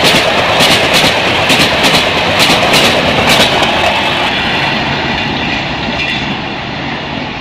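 LHB passenger coaches passing at high speed, a loud rush of wheel and rail noise with sharp clicks, often in quick pairs, as the wheels cross the rail joints. About four seconds in the clicks stop and the sound fades steadily as the last coach goes by and the train recedes.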